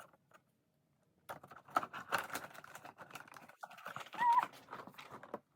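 A quick, irregular run of light clicks and taps from small stickers and plastic pieces being handled on a phone case, with one short wavering squeak-like tone about four seconds in.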